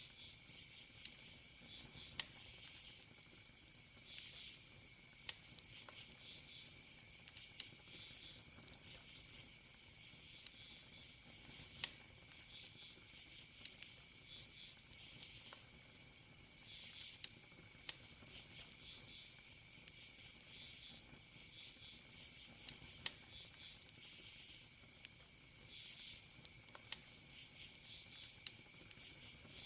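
Wood campfire crackling, with irregular sharp pops scattered through, over a steady, soft chirring of crickets.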